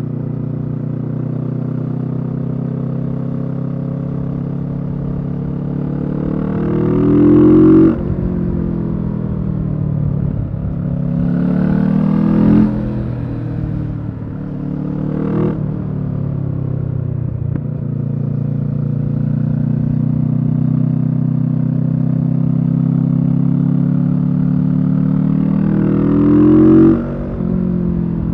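Kawasaki Z650 parallel-twin engine through a Leo Vince EVO carbon exhaust, running steadily under way. It rises in pitch three times as the bike accelerates in gear, and each rise breaks off in a sudden drop, as at a gear change or when the throttle is rolled off.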